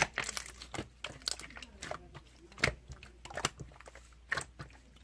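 Pink marbled translucent slime being squished and kneaded by hand, making irregular wet clicks and pops.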